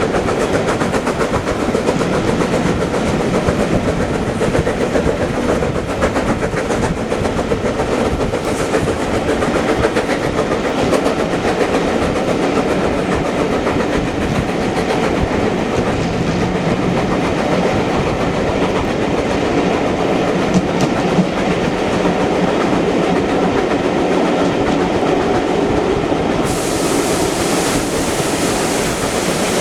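Steam-gala heritage train running steadily along the line, with wheels clattering over the rails. A hiss joins near the end.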